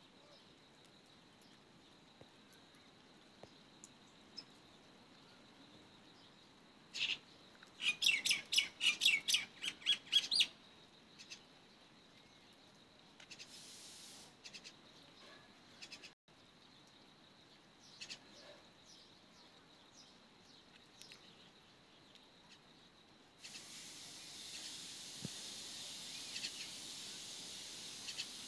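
Birds calling: scattered short chirps, with a quick run of repeated calls about eight seconds in that lasts two or three seconds, over a faint steady high tone. From about 23 seconds in, a steady hiss sets in beneath the calls.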